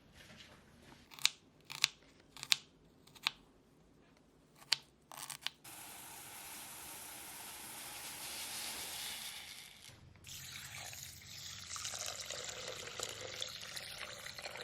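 Kitchen sounds: a handful of sharp knocks and clicks, then water running from a tap for several seconds. About ten seconds in the running water changes to a rougher, fuller sound.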